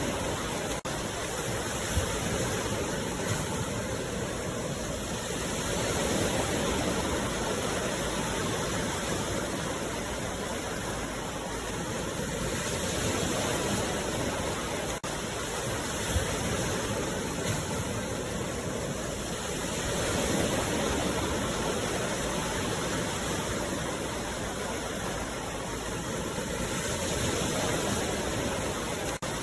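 Sea waves washing in a steady rush of noise that swells and eases every six or seven seconds.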